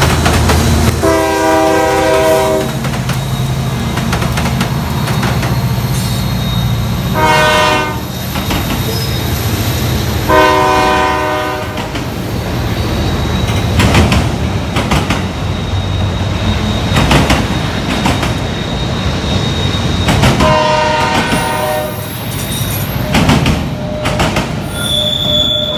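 CSX freight train passing. The lead diesel locomotive sounds its multi-chime horn in four blasts, about a second in, near 7 s, near 10 s and near 20 s, the second one short, over a steady low rumble. Autorack cars then roll by with wheels clicking over rail joints and a thin, steady, high wheel squeal.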